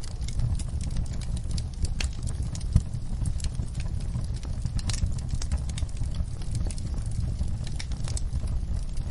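Wood fire in a fireplace crackling: many small sharp pops and snaps over a steady low rumble of burning, with one louder pop about three seconds in.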